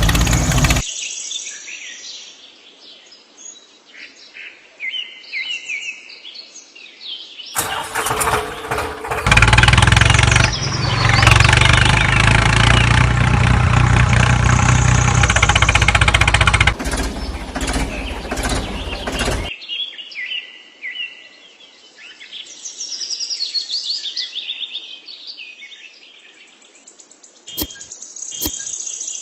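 Birds chirping, broken for about twelve seconds in the middle by a loud, steady engine-like running sound, with a few sharp clicks near the end.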